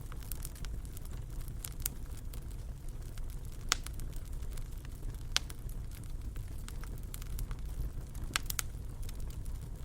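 Wood fire in a fireplace crackling: a steady low rumble of the flames with irregular sharp pops, two of them louder, a little before and after the middle.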